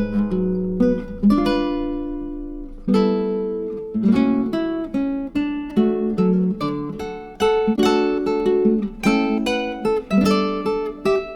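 Background music: acoustic guitar playing plucked and strummed notes that ring and die away.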